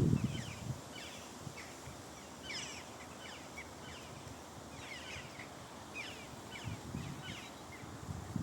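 Small birds chirping: many short, quickly falling notes repeating throughout, as from several birds at once. A low rumble of wind or handling on the microphone is loud at the very start.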